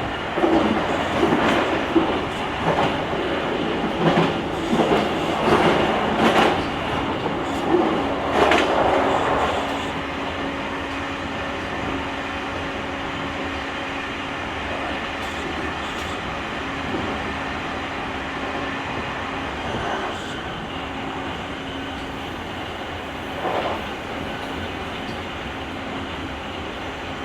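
Running sound of a JR Kyushu 883 series limited express, heard from the deck inside a motor car: wheels on rail with a run of loud knocks and rattles over the first ten seconds or so. After that it settles into a steadier, quieter running noise with a steady hum.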